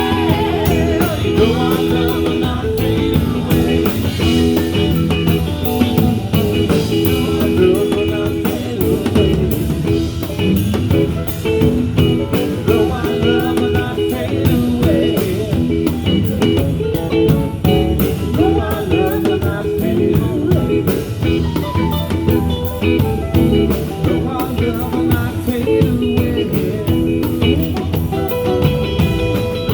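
Live blues-rock band playing: electric guitar over a drum kit with a steady beat.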